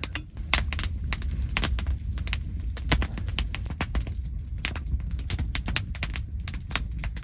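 Burnt-down campfire crackling, with irregular sharp snaps several times a second over a steady low rumble.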